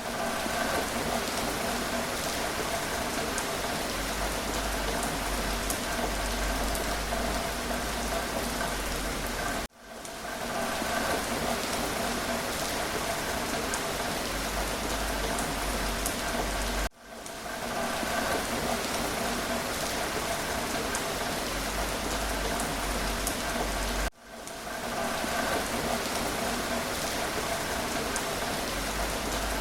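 Steady rain falling, with individual drops pattering over an even hiss. The sound cuts out abruptly three times and fades back in over about a second each time.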